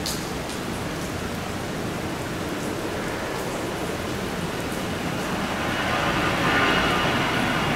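Steady heavy rain, with a jet airliner's engine noise swelling from about five seconds in as it takes off.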